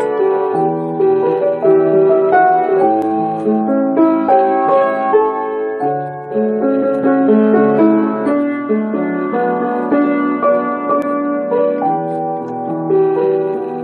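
Instrumental introduction of a song played on a keyboard: a melody of held notes over a moving bass line, without singing.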